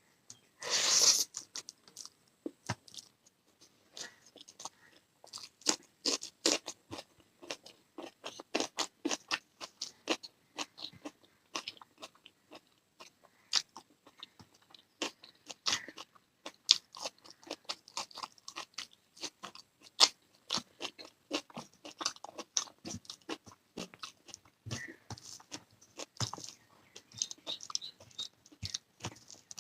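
A person chewing and crunching food close to the microphone: an irregular run of sharp, wet clicks and crunches, with a longer, louder crunch about a second in.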